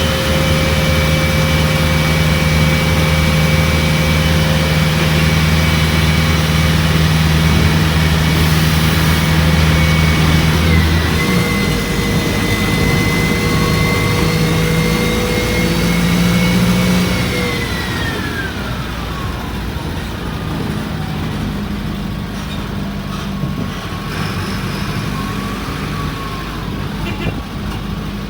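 Mercedes-Benz OF-1722M bus running under way, its engine humming steadily with a thin high-pitched whine over it. The engine note changes about eleven seconds in. The whine then falls in pitch and the sound eases a little around eighteen seconds as the bus slows.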